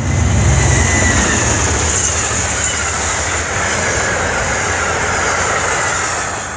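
Amtrak passenger train led by a GE Genesis diesel locomotive passing close at speed. A deep engine rumble as the locomotive goes by gives way to the steady rush of the coaches' wheels on the rails, with a faint high whine drifting lower. The noise eases off near the end as the last car passes.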